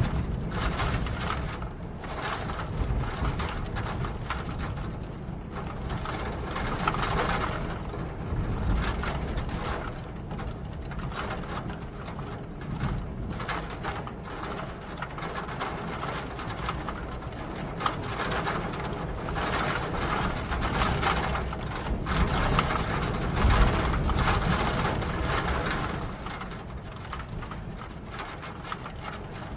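Rain falling, a dense irregular patter of drops over a low rumble, swelling and easing in slow waves.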